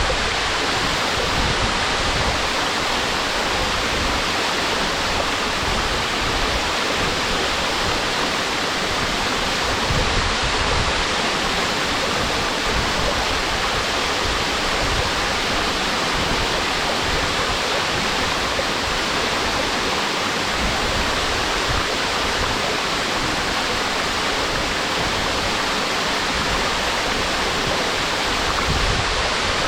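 Waterfall pouring steadily into its pool: an even, unbroken rush of falling water.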